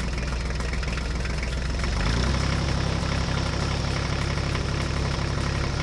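Tractor engine sound running steadily, its note changing and growing a little louder about two seconds in.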